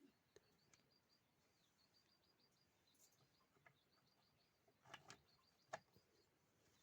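Near silence, with a faint high-pitched rapid chirping throughout and a couple of soft clicks near the end.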